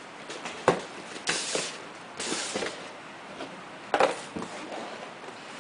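A cardboard tablet box being opened and its packaging handled: two sharp knocks, about a second in and near the end, with brief scraping and rustling between them and a few lighter taps.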